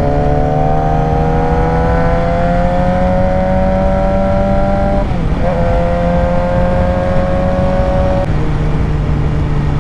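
Suzuki GSX-R 600 inline-four engine pulling on the road, its note climbing slowly as the bike gains speed. About five seconds in the note dips briefly and comes back lower as it shifts up, then holds steady.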